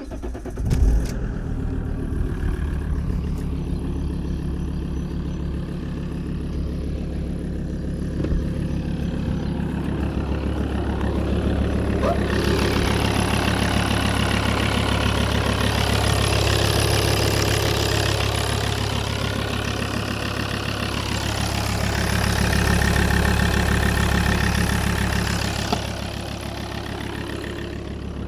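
An engine starts about a second in and keeps running steadily, growing louder and busier between about 12 and 26 seconds in before settling back.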